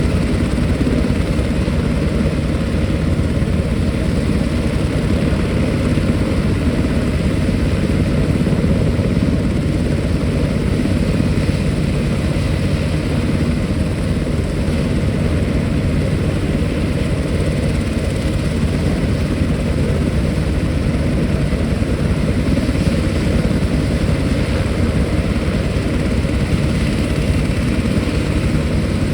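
Military helicopter running, its rotor and turbine engines making a steady, loud noise that is heaviest in the low end and does not change.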